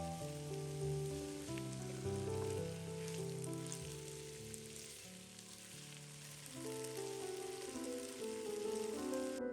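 Food sizzling and crackling as it fries in a pan, under soft piano background music. The sizzle cuts off suddenly just before the end, leaving the music.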